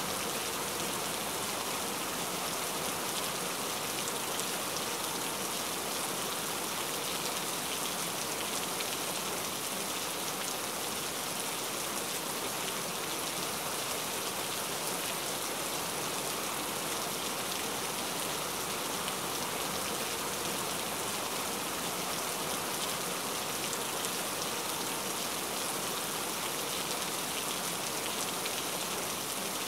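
Steady rain falling on a surface, an even hiss of drops that keeps the same level throughout.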